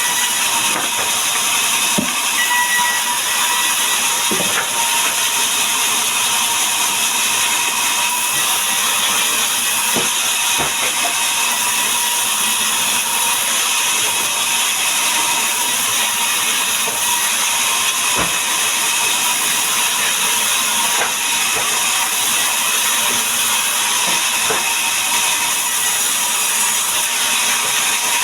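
Woodworking power saw running steadily while cutting timber, with scattered light knocks.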